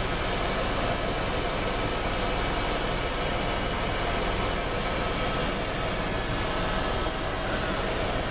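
Helicopter running: a steady, unbroken drone of engine and rotor noise with a faint steady whine in it.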